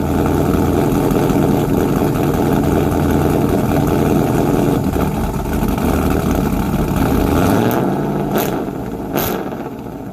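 2002 Trans Am WS6's LS1 V8 with an aftermarket camshaft, running shortly after a cold start. About three-quarters of the way through, the engine note drops lower and quieter. Three brief sharp clicks follow near the end.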